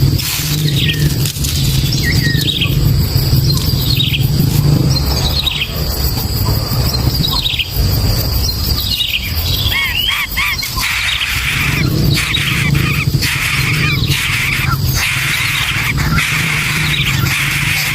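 A bird calling repeatedly in short, downward-sliding notes about once a second, breaking into a quick run of looping notes about ten seconds in and denser chirping after that, over a steady low rumble.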